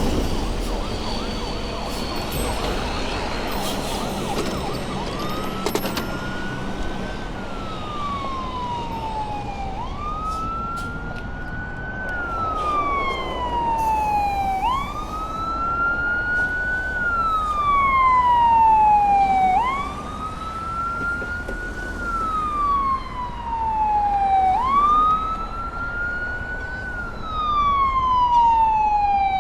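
Emergency vehicle siren in a slow wail, starting about five seconds in: each cycle climbs quickly and falls slowly, repeating about every five seconds and growing louder, over steady city street and traffic noise.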